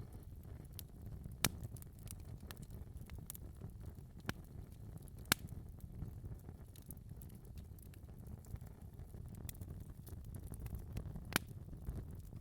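Wood fire in a fireplace burning with a soft low rumble and scattered sharp crackles and pops, a few louder snaps standing out.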